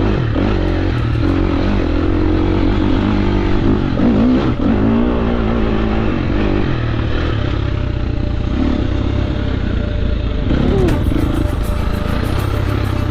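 KTM 350 SX-F dirt bike's four-stroke single-cylinder engine running under way, its pitch rising and falling as the throttle is worked, most clearly about four to five seconds in. Near the end the sound shifts and a fine high ticking comes in over the engine.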